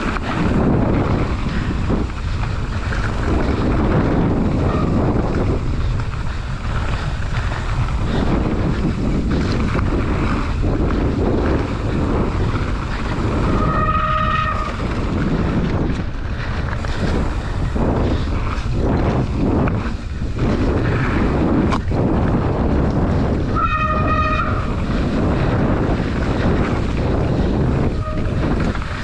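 Mountain bike descending a trail at speed: a steady rush of wind on the microphone, mixed with tyres on dirt and rock and the bike rattling over bumps. Twice, about ten seconds apart, a short pitched whine cuts through.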